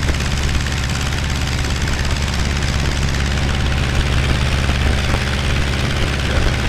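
Aeronca 7AC Champ's small four-cylinder engine and propeller running steadily under power during the takeoff roll, heard from inside the cockpit.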